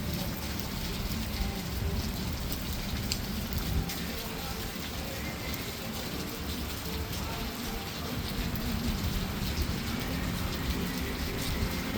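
Steady downpour of rain.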